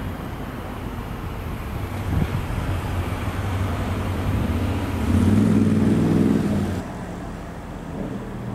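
Fertagus double-deck electric train approaching with a steady low rumble that grows louder, then sounding a loud horn for under two seconds about five seconds in. The sound cuts off suddenly just before seven seconds, leaving a fainter train rumble.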